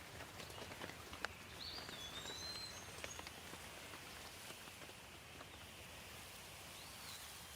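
Light, steady rain with scattered drops striking close by, and a small bird chirping briefly about two seconds in and again near the end.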